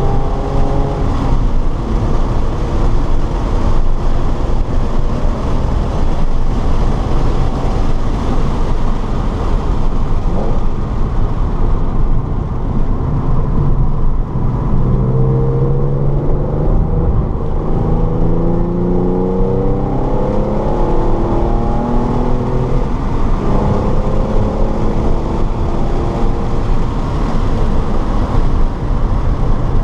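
Car engine pulling hard and easing off, its note rising in pitch several times as it accelerates, under a constant loud rumble of road and wind noise heard from inside the car.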